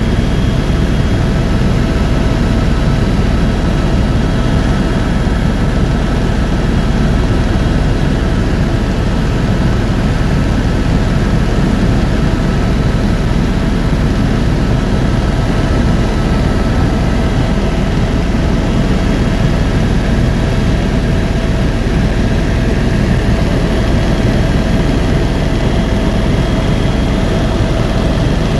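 Tour helicopter in flight, heard from inside the cabin: a loud, steady drone of engine and rotor, with a few faint, steady whining tones above it.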